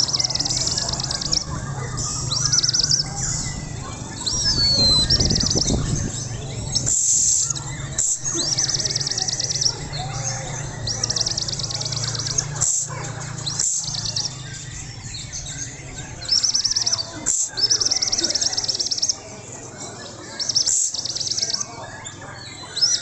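White-rumped shama singing in fast, rattling phrases about a second long, repeated again and again with short breaks between. A steady low hum runs underneath.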